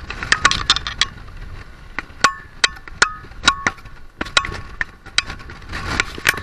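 Hard objects clinking and knocking irregularly in strong wind, a dozen or more sharp strikes, some with a brief ringing tone after them.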